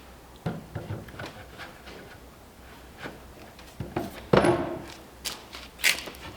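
Wooden pieces being handled: scattered knocks, clicks and rubs of wood, with a heavier knock a little past four seconds in.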